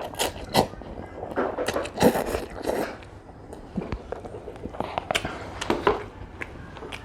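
Close-miked eating sounds of a person chewing spicy noodles, with irregular wet smacks and clicks.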